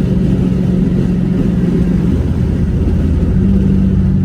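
Car engine running with a steady low drone, its pitch shifting slightly about two seconds in.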